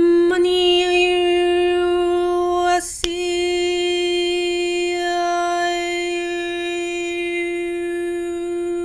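A long held note at one steady pitch, rich in overtones. It breaks off briefly about three seconds in and is then held again at the same pitch.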